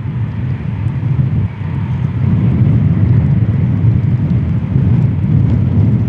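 Eurofighter jet engines giving a loud, steady low rumble that swells slightly a couple of seconds in.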